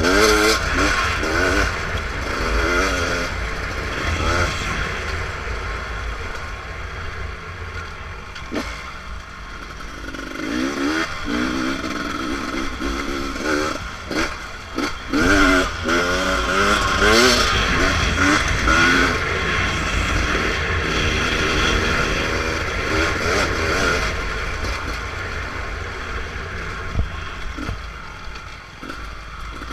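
Beta RR300 two-stroke single-cylinder enduro engine under way on a trail, revving up and down again and again as the throttle is opened and closed.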